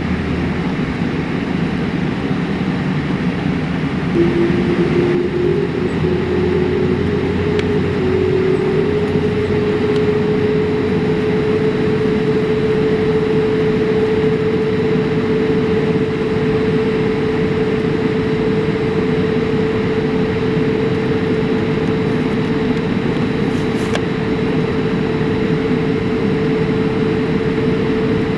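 Boeing 787-8 engine noise heard inside the cabin: a steady rush with an engine whine that rises in pitch starting about four seconds in, then holds steady.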